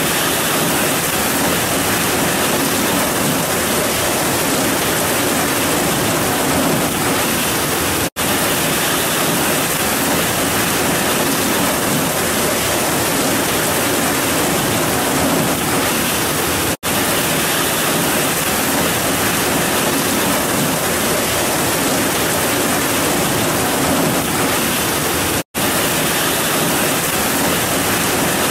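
Heavy rain pouring down, a dense, steady hiss with no thunder, broken three times by a split-second silence about every eight and a half seconds.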